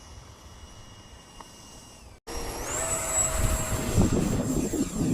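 Electric ducted fan of an FMS Rafale 80mm RC jet whining steadily and faintly. After a sudden break about two seconds in, the whine comes back much louder, climbs in pitch and then holds, with gusts of wind buffeting the microphone.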